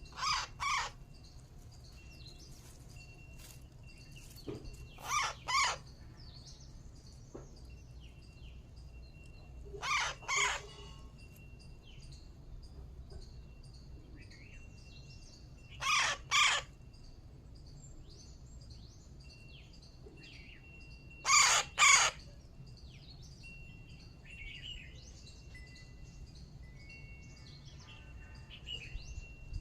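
A parrot giving a loud two-note call, five times, about every five to six seconds. Faint chirps of other birds and a low steady hum run behind it.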